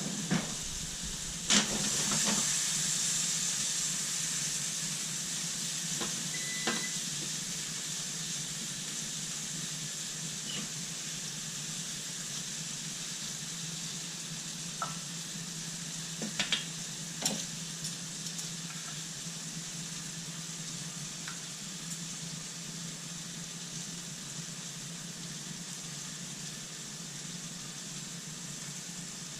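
Chicken sizzling as it grills: a steady hiss that comes up about a second and a half in and slowly fades, over a low hum, with a few sharp knocks of utensils or cookware here and there.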